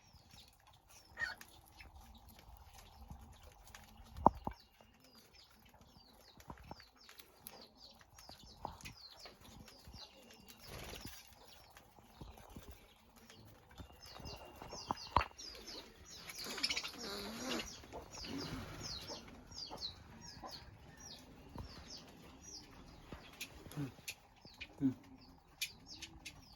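Caged cockatiels and budgerigars chirping and chattering continuously in many quick, short, high calls, with wing flapping and rustling and a few sharp knocks against the cage.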